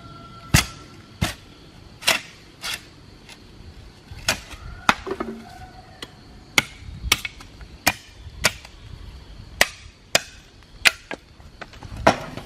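A hand tool striking wood again and again at an uneven pace, roughly one blow a second, some blows sharp and loud and others lighter.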